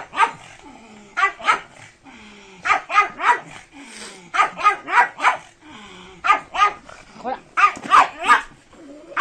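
Pug barking excitedly, with short barks in quick runs of two to four and brief pauses between runs.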